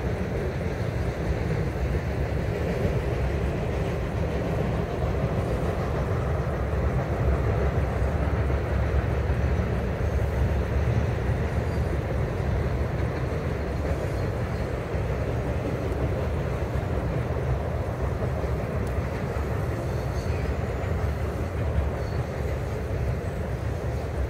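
Union Pacific autorack freight train rolling across a steel truss bridge: a steady low rumble of cars and rail noise with no horn or distinct clicks.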